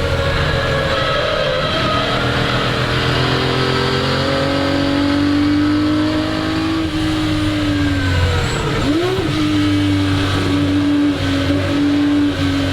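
1961 Ferrari 250 GT SWB's 3-litre Colombo V12 running hard on track. The engine note climbs slowly, sags, then dips and rises sharply about nine seconds in before holding steady.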